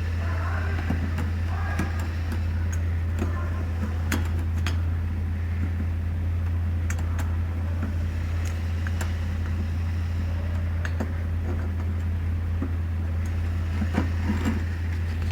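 A steady low hum with scattered light clicks and taps of small metal engine parts being handled, a few of them together about 14 seconds in.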